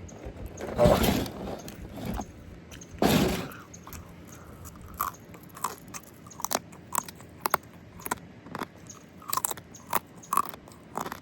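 Close-miked eating: two louder crunches about one and three seconds in, then chewing with short sharp mouth clicks about twice a second.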